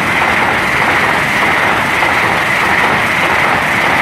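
Class 800 IET train passing through the station at speed without stopping: a loud, steady rush of wheels and train on the rails.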